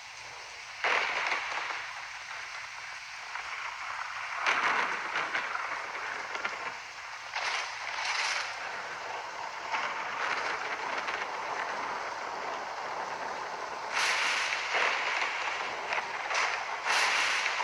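Thunderstorm: a steady rushing noise broken by about six sudden, louder crashes, the first about a second in and several close together near the end.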